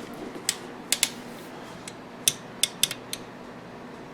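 Sharp metal clicks and clinks, about eight in scattered clusters, from tools and parts being handled on a KitchenAid stand mixer.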